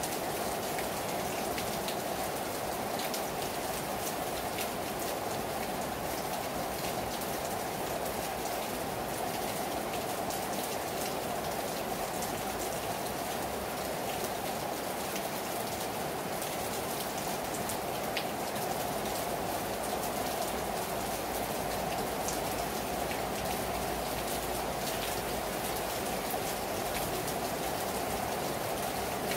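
Heavy rain falling steadily on a terrace, a constant dense patter with individual drops ticking on top.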